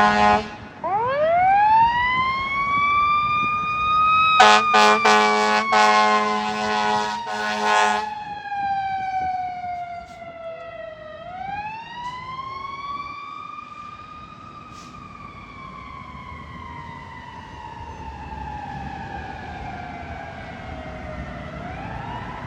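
Fire engine siren winding up about a second in, joined by a loud air horn blast lasting about four seconds from roughly four seconds in. After that the siren wails slowly down and up twice, growing fainter as the truck moves off.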